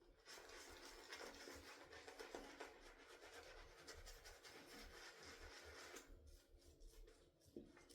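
Shaving brush working soap lather, a faint steady swishing and rubbing that eases off about six seconds in.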